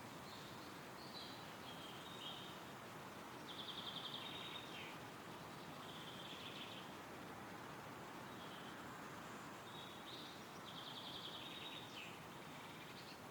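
Wind rustling steadily through woodland trees while a small songbird sings short, high phrases, with two longer trills near the middle and near the end.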